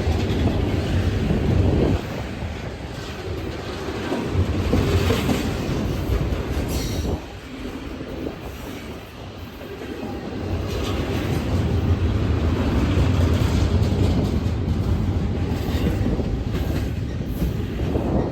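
Freight train rolling past, its wheels rumbling and clacking over the rail joints with some wheel squeal. The loudness drops suddenly about two and about seven seconds in, then builds again.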